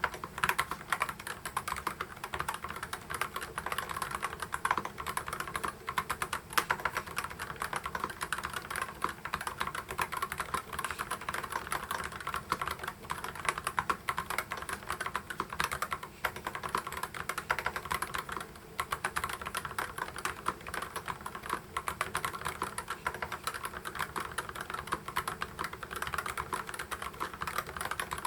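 EPOMAKER HE75 Mag mechanical keyboard with Gateron Magnetic White magnetic (Hall-effect) switches being typed on fast and continuously, a dense run of keystroke clacks with one brief pause about two-thirds of the way through.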